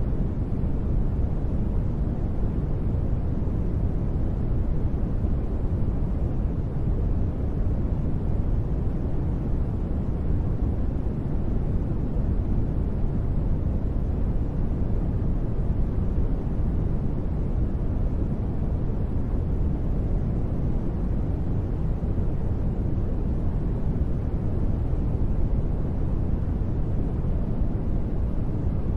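Steady, unbroken sleep noise with no sudden sounds, deep and dull, most of its weight in the low end and little hiss up top.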